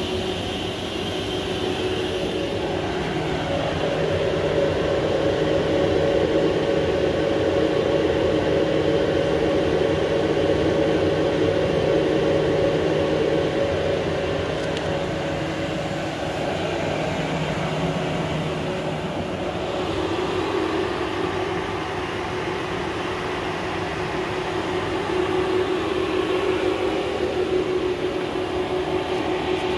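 Steady machine hum from a powered-up, idle Universal Instruments Genesis GC30 pick-and-place machine, its servos on and waiting. Several held tones run through it, changing balance a few seconds in and again about two-thirds of the way through.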